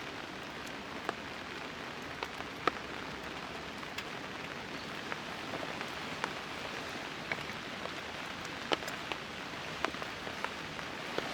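Steady rain with heavier single drops landing at irregular intervals on a tarp.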